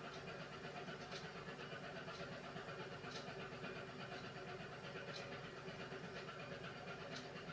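Beko WMY81283LMB2 front-loading washing machine in the wash phase of its hand-wash programme: the drum motor runs with a steady hum, and a soft hiss comes back about every two seconds as the drum turns the load gently.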